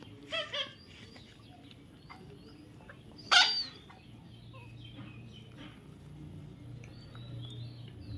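Birds calling: two short squawks just after the start, one loud squawk about three seconds in, and faint chirps in between.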